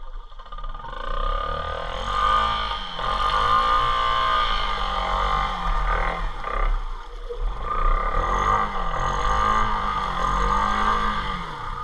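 Small motorbike engine revving up and back down twice, its pitch rising and falling in long sweeps with a short drop in between, while the bike is pulled through deep water in first gear.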